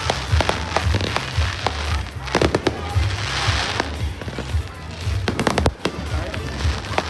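Fireworks going off in a rapid string of bangs and pops, with a dense crackling hiss about three seconds in.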